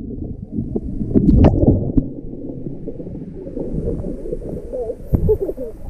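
Muffled sloshing and gurgling of water heard with the microphone underwater as a kayak goes over for a roll, with a few sharp knocks about a second and a half in.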